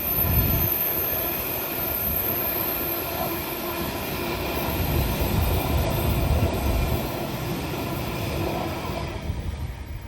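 A train passing close by on the main line: a steady rumble of wheels on rail, which cuts off abruptly near the end.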